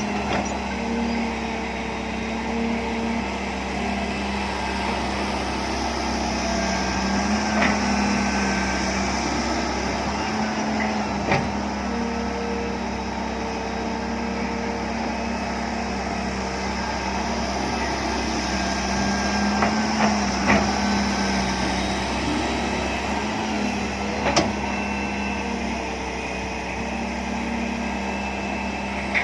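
John Deere 595D excavator's diesel engine running steadily, its pitch rising and dipping slightly under load, with a few sharp knocks spread through the stretch.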